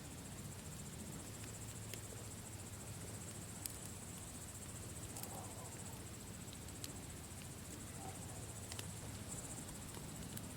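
Campfire burning, with a few scattered sharp crackles and pops over a steady high-pitched chirring of crickets.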